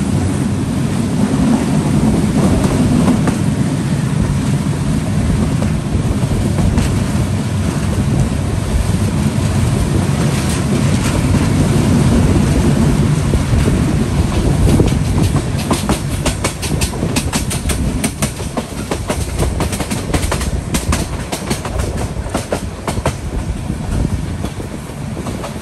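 Passenger train running at speed, heard from on board: a steady low rumble of wheels on the rails. From about midway a dense run of sharp clicks and clatter from the wheels joins the rumble and eases off near the end.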